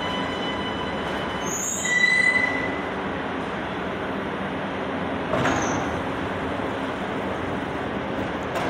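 Ankara Metro subway train running, a steady rail rumble with a high wheel squeal about two seconds in and another short squeal about five and a half seconds in.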